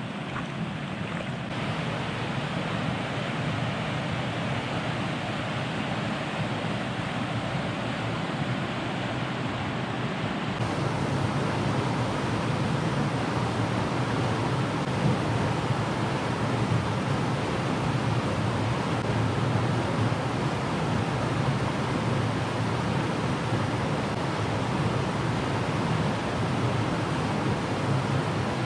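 Mountain river water rushing steadily, a continuous noise that grows louder about ten seconds in.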